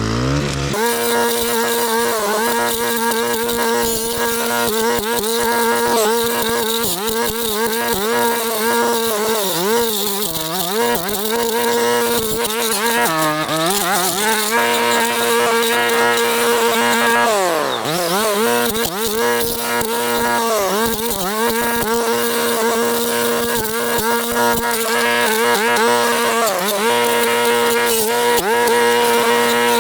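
Stihl Kombi brushcutter with a tri-blade attachment running at high revs while cutting brush, its engine note dipping and recovering several times as the blade bites into the growth, most deeply about two thirds of the way in.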